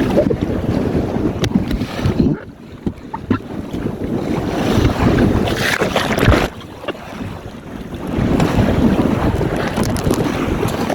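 Strong wind buffeting the microphone over water rushing and splashing along the hull of a small sailing dinghy, easing off briefly twice.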